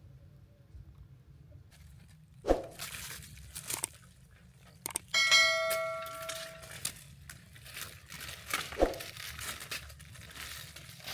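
Kitchen handling sounds: a metal pot or dish struck once about five seconds in, ringing and fading, among sharp knocks and crinkly rustling.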